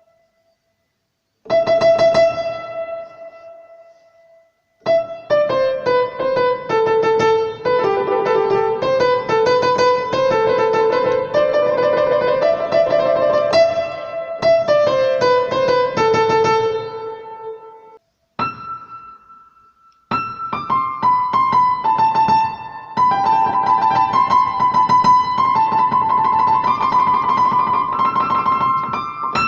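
Piano playing: a chord struck and left to ring, then a quick run of notes lasting about twelve seconds, a short pause with one note, and a second fast passage near the end.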